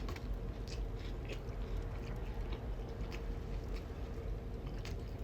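Close-up mouth sounds of chewing food, with irregular wet smacking clicks of the lips and mouth, over a faint steady hum.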